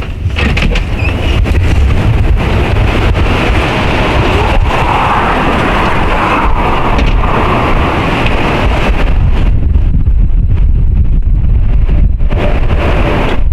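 Strong wind blowing through trees, a steady loud rush with heavy low rumble of wind buffeting the microphone through its furry windscreen. A gust swells about five seconds in, then the higher rushing eases off for a while near the end.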